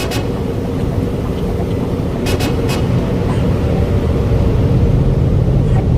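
Steady low rumble of a running motor, growing slightly louder, with a few short sharp clicks, three of them close together a little over two seconds in.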